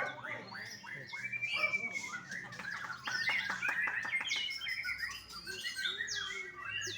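Young white-rumped shama singing a varied song of whistles and chirps, with a quick rattling run of sharp notes about halfway through.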